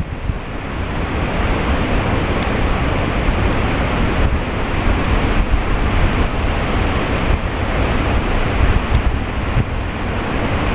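Steady roar of a large waterfall, a dense, even rush of falling water, with wind buffeting the microphone.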